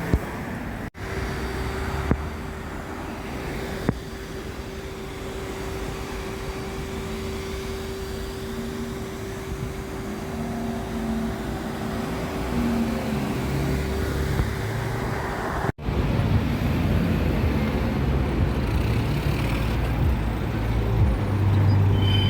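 Road traffic noise: motor vehicles running and passing on a street. A steady hum sits under it for most of the stretch, and the sound drops out briefly twice, about a second in and again near sixteen seconds.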